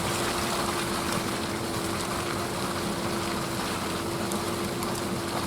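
Steady road and engine noise inside a slowly moving truck's cabin, with a steady low hum throughout.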